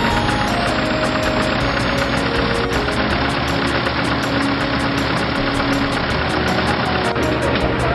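Veteran tractor engine running steadily.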